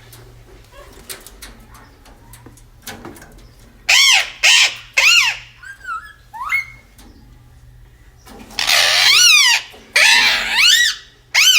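Pet parrot squawking: a string of loud, harsh calls that rise and fall in pitch, with a few short whistled notes in between and one longer screech about two-thirds of the way in. The first few seconds hold only faint clicks.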